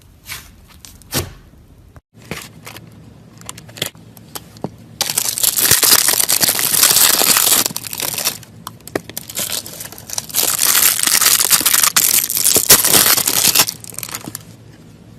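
Slime being worked by hand: scattered sticky clicks and pops, then two long stretches of loud, dense crackling and tearing noise.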